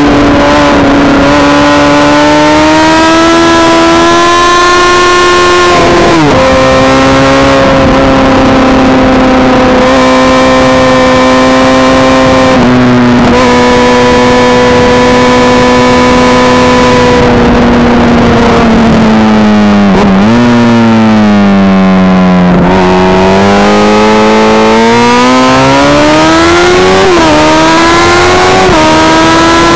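Honda CBR Fireblade's inline-four engine at racing revs, heard onboard with wind rush. Its pitch holds high, sags into a slower section around twenty seconds in, then climbs again under acceleration, dropping sharply at each gear change.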